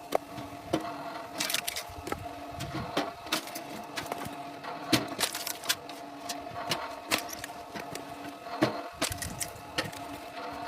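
A steady machine hum with frequent irregular clicks and knocks, typical of wood being handled or split by a machine.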